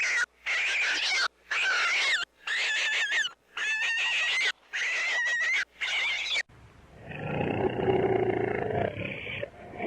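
Animal calls: about six harsh, high-pitched calls, each roughly a second long with short gaps between, then about two-thirds of the way through a different, lower and rougher animal sound that swells.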